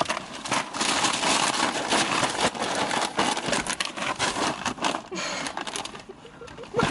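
Plastic packaging crinkling and rustling as it is handled, a dense run of small crackles that eases off briefly near the end.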